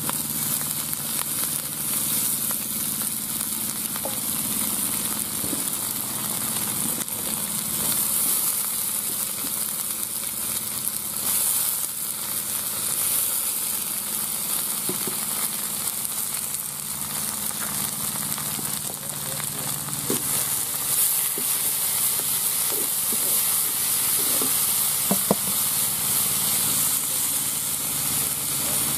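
Sliced onions and greens sizzling as they fry in oil in a large aluminium pot over a wood fire, a steady hiss, with a ladle stirring them now and then.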